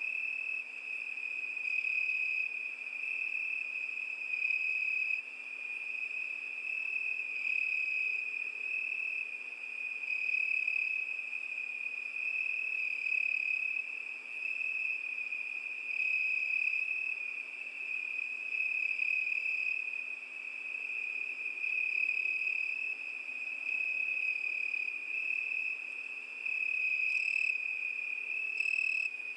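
Cricket chirping in a continuous high-pitched trill that swells and fades every couple of seconds, with a couple of short ticks near the end.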